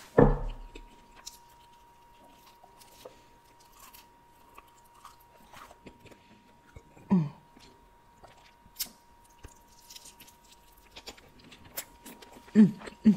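Close-miked eating sounds: chewing and biting into boneless buffalo chicken wings, with soft wet mouth clicks. A louder bite at the very start, and short hummed voice sounds about seven seconds in and near the end.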